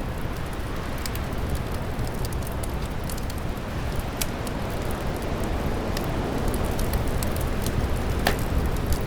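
Steady rumble of wind with the scattered small crackles and pops of a wood fire, one sharper pop about eight seconds in.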